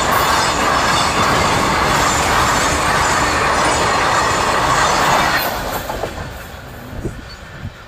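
Freight train of petrol tank wagons rolling past, steel wheels running on the rails in a loud, steady rush. The noise drops away about five seconds in as the end of the train passes and moves off.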